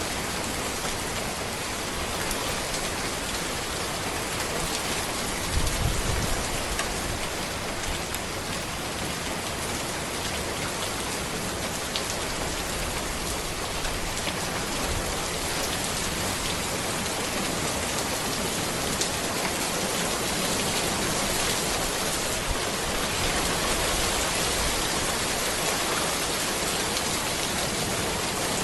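Steady rain falling on a road among trees, with individual drops striking close by. A brief low thump about six seconds in.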